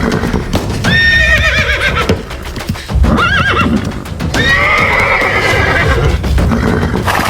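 Horse whinnying several times over a steady clatter of hoofbeats.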